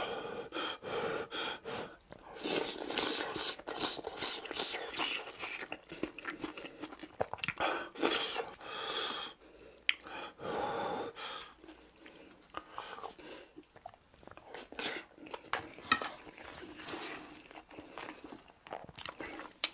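Close-miked chewing of mouthfuls of rice and braised tofu, in irregular bursts with scattered short sharp clicks.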